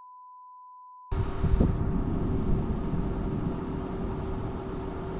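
A steady 1 kHz censor bleep for about the first second, cut off suddenly by the noise of a vehicle driving, with wind noise and a steady low hum.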